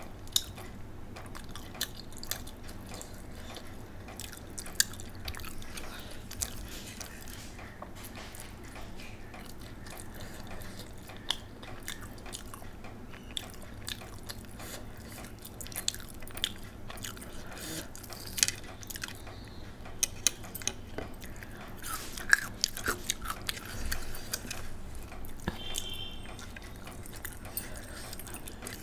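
Close-up chewing of a mouthful of rice and egg, with scattered sharp wet mouth clicks at irregular intervals. Fingers gather rice from a plate.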